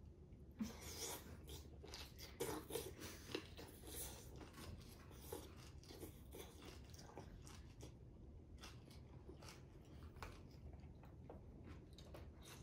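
Open-mouthed chewing of a large mouthful of Korean food right at a microphone, done to make the eating heard for ASMR: an irregular run of sharp mouth clicks and smacks, thickest in the first half and thinning toward the end.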